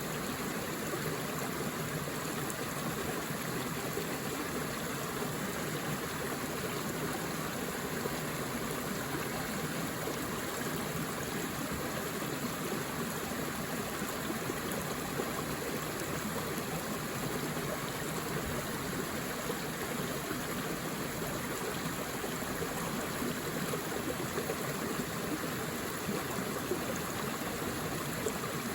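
Forest river water flowing and splashing steadily over rocks, a continuous rushing sound.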